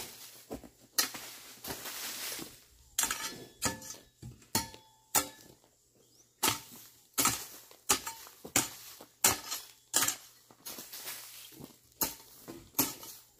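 Hoe chopping into weedy soil in uneven strokes, roughly one or two a second, with short scraping rustles between some strokes and a brief metallic ring on a few.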